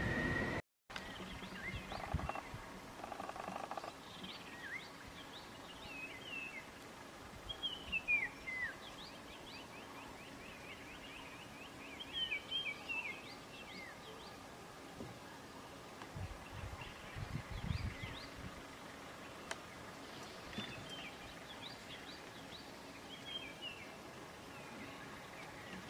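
Wild birds calling over a faint outdoor background: scattered short chirps and quick falling whistles, with a brief low rumble about two-thirds of the way through.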